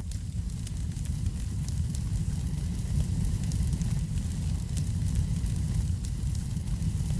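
Wood fire burning in a fireplace: a steady low rumble with frequent small, sharp crackles and pops.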